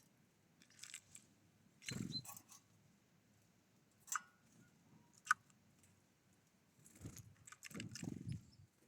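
Small wild birds at a feeder: scattered light taps and clicks with rustling flutters, and two short sharp chip notes in the middle.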